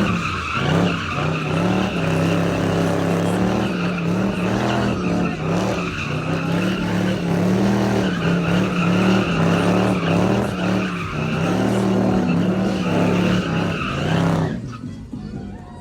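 A car doing a burnout: tires screeching against the pavement over an engine held at high, slightly wavering revs. It cuts off about a second before the end.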